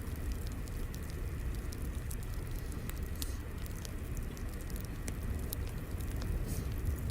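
Crackling wood fire: irregular sharp pops and snaps over a steady low rumble of the flames.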